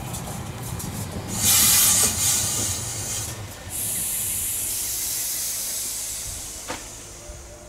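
SNCF Z 5300 electric multiple unit pulling slowly into a station and braking to a stop: a low rumble of wheels on the rails, then loud blasts of compressed-air hiss. The loudest hiss comes about a second and a half in, and a second one starts about four seconds in and slowly fades, with a brief thin squeal near the end.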